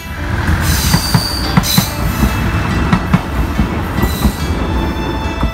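Tadami Line diesel railcar running past close by: a low engine and rail rumble with wheels clicking over the rail joints. Brief high wheel squeals come about a second in, near two seconds and again near four seconds.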